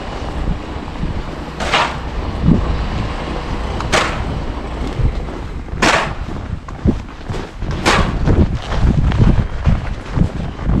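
Four short, sharp scraping strokes about two seconds apart, over wind rumbling on the microphone.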